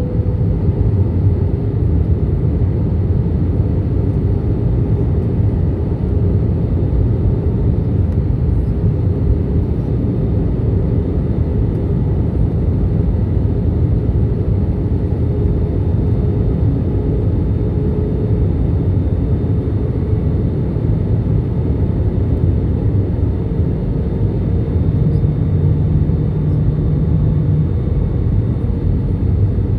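Airliner cabin noise: the steady low rumble of engines and airflow with a faint constant hum, heard from inside the plane on approach to landing. A slightly stronger low tone comes in for a couple of seconds near the end.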